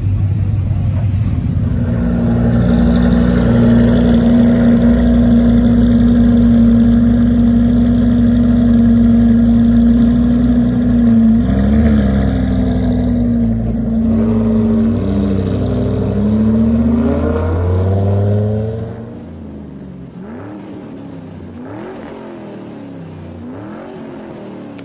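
Car engine running steadily, then revving with its pitch bending and rising. Near the end it drops away suddenly to a quieter sound that sweeps up and down about every second and a half.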